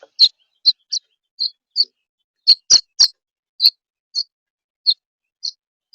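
A bird chirping: a string of short, high single chirps, about two a second at uneven spacing.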